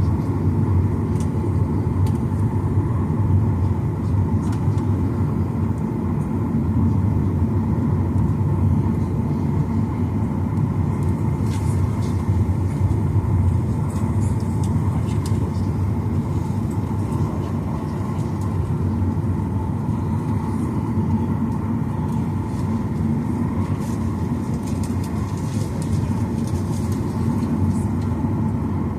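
Steady cabin noise inside a Boeing 737-900ER: a low rumble from its CFM56 engines running on the ground, with faint steady whining tones on top.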